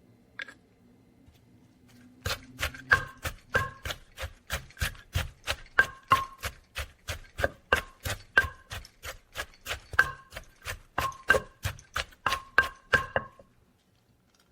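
Rhythmic kitchen knocking: a utensil striking food on a hard surface about three times a second for around eleven seconds, each knock with a short ringing tone.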